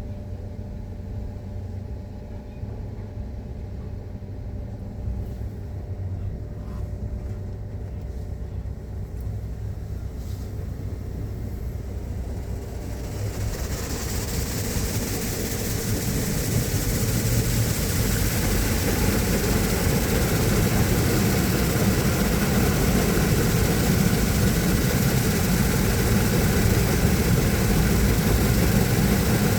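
Automatic car wash machinery running with a steady low hum. About halfway through, a loud rushing hiss sets in, swells over a few seconds, then holds steady.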